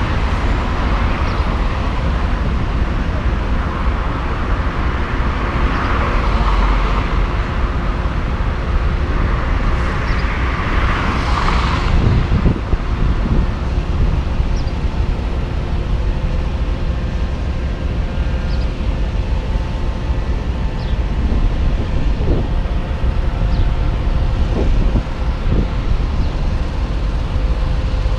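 Tractor-trailer's diesel engine running with a steady low rumble while the rig is maneuvered, with a brief louder rush of noise about ten seconds in.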